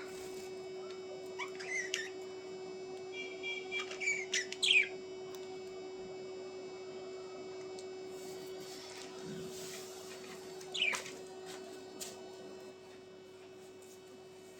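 Small birds giving short, quick chirps in three brief bouts, the loudest about four to five seconds in, over a steady electrical hum.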